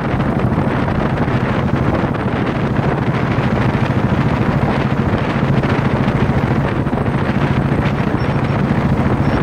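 Royal Enfield single-cylinder motorcycle engine running at a steady cruise, heard from the saddle, with wind rushing over the microphone.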